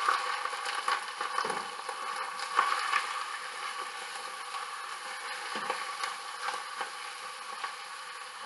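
Raw chicken thigh pieces sizzling in hot oil in a stainless steel skillet, a steady frying hiss, with irregular scrapes and taps of a spoon stirring them.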